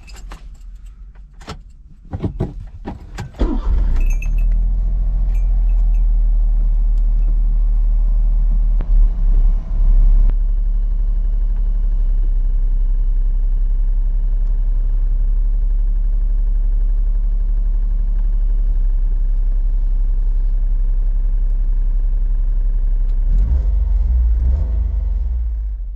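A few clicks and knocks, then about three and a half seconds in a Honda Beat's small 656 cc three-cylinder engine starts and runs with a loud, steady low drone.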